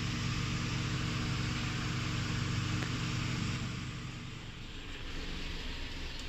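Car engine idling steadily, its low hum weakening about four seconds in.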